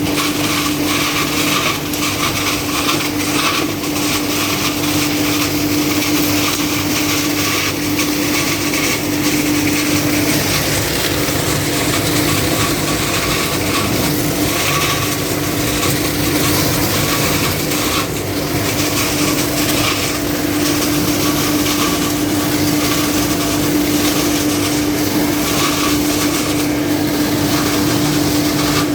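Suction blower vacuuming leaves, running steadily with a constant droning tone, the leaves crackling and rattling as they are drawn through it.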